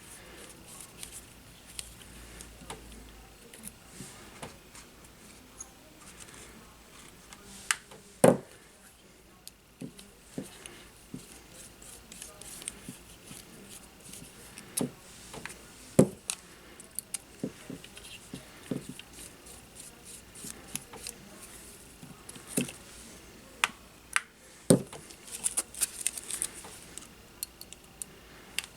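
Small hand tools and drone parts handled on a workbench: scattered clicks and taps, with a few sharper knocks, the loudest about eight seconds in and again around sixteen seconds, and a quick run of small clicks near the end.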